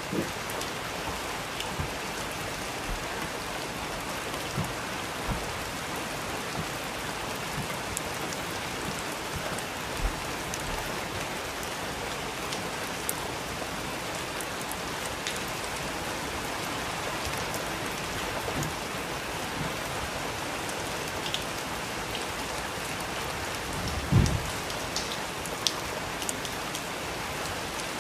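Steady rain falling, an even hiss throughout, with a few louder low thumps scattered through it, the strongest about 24 seconds in.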